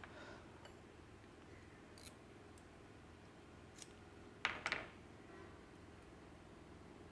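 Faint steady hum with a few light clicks, then a quick run of about three sharp clicks about four and a half seconds in, from tools and parts being handled during motorcycle engine top-end reassembly.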